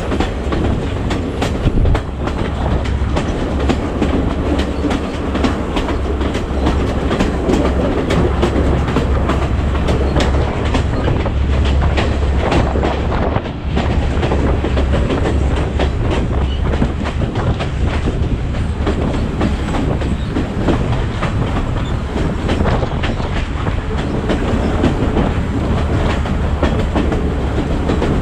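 A Sri Lankan passenger train running along the line, heard from on board: a steady low rumble with the wheels clattering over the rail joints.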